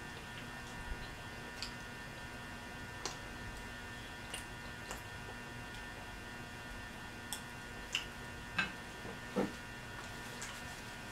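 Mouth sounds of someone eating pizza: scattered soft smacks and clicks of chewing, a few more in the second half, over a steady electrical hum.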